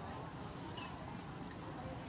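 Faint, steady sizzle of small round cakes cooking in a dimpled pan of cups, with a low murmur of voices behind.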